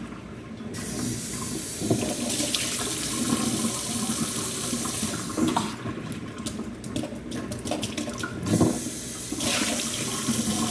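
Tap water running into a sink as a parrot's food dish is rinsed out under the stream, with a stretch of uneven splashing about six to eight seconds in.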